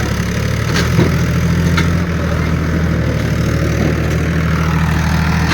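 Tractor diesel engine running steadily at low revs, with a few short sharp knocks about one and two seconds in.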